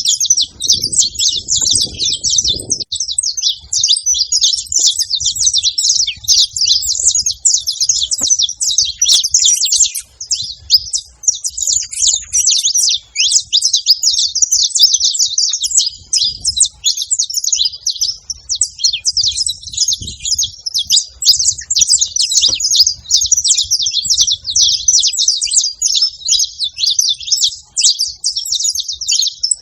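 Saffron finch singing nonstop: a dense stream of rapid, high chirps and trills with no pauses.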